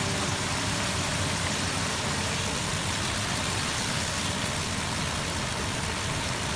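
Cola-braised pork rib sauce bubbling and sizzling steadily as it boils down in a nonstick wok, with a spatula stirring through it.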